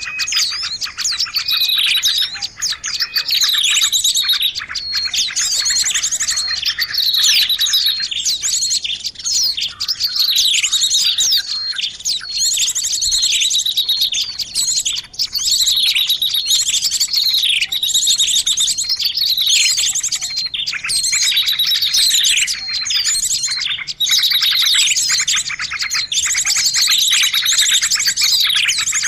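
A busy chorus of many small songbirds chirping and twittering without pause, with calls overlapping and repeated high falling notes. It is a bird-lure recording of a noisy flock of small birds, of the kind used to draw birds in for trapping.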